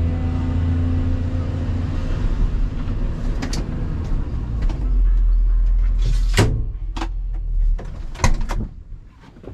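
Volvo EC220EL excavator's diesel engine running steadily, then a series of sharp clunks and knocks from about three seconds in, the loudest two near the middle and near the end. The engine noise drops away shortly before the end.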